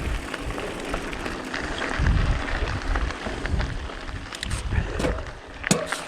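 Mountain bike riding on a dirt trail, heard on the rider's action camera: a steady rough trail and wind noise with heavy low rumbling surges on the microphone every second or so, and a few sharp clicks near the end.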